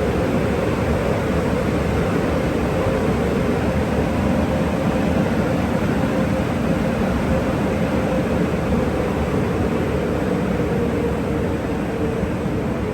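Car wash tunnel drying blowers running with a steady rush of air and a faint fan tone that drops slightly in pitch near the end.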